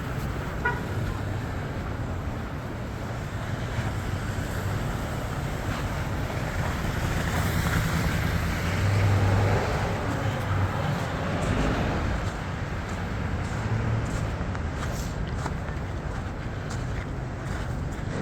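City street traffic: vehicle engines running with a steady low hum and road noise, one vehicle growing louder about halfway through.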